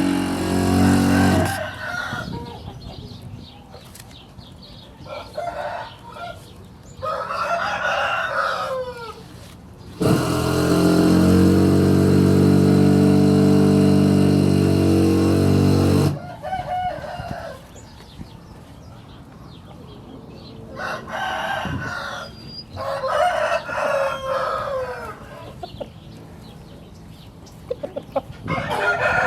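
Roosters crowing several times, each crow a drawn-out call that falls at the end. About ten seconds in, a loud, steady low drone takes over for some six seconds.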